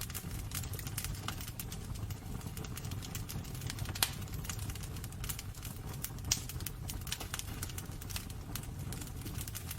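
Wood fire burning in a fireplace, crackling with irregular sharp pops over a low steady rumble. Two louder pops come about four and six seconds in.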